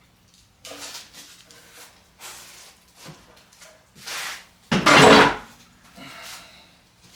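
Metal clanking and scraping in a run of short bursts, the loudest about five seconds in, as tools pry at an oil pan held on with liquid gasket sealant.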